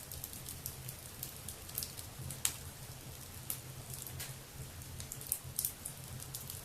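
Wood fire burning in a fireplace: irregular crackles and pops, with one sharp pop about two and a half seconds in and a quick cluster of pops near the end.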